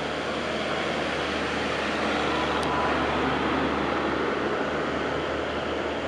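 Steady traffic noise of trucks on the road: engine drone and tyre rumble, swelling slightly in the middle.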